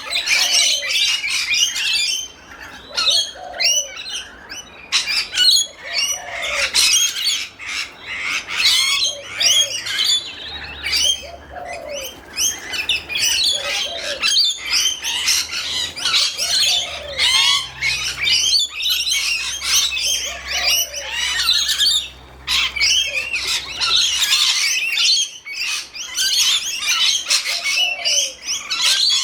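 A feeding flock of rainbow lorikeets chattering and screeching without pause, many high calls overlapping, with short lower calls coming through now and then.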